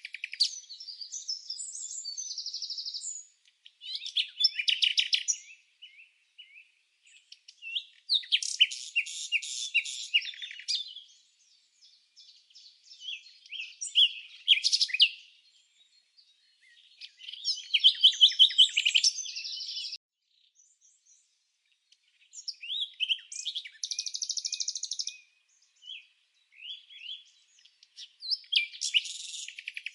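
Songbird singing in phrases of about two to three seconds, each a fast run of high chirps and trills, with short pauses between phrases.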